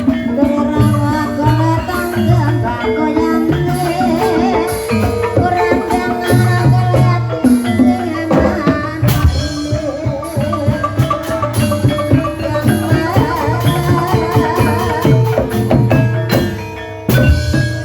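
Traditional ensemble music for an ebeg trance dance: struck keyed instruments and drums in a steady rhythm under a wavering melody line. The music drops briefly near the end, then comes straight back in.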